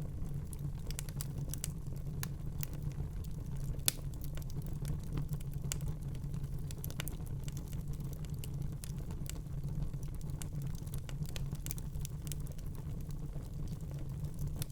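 Wood fire burning in a fireplace, crackling with irregular small pops and snaps over a steady low rumble; one sharper pop about four seconds in.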